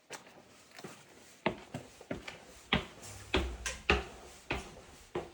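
Footsteps walking indoors at a steady pace, about two steps a second, with a few heavier thuds near the middle.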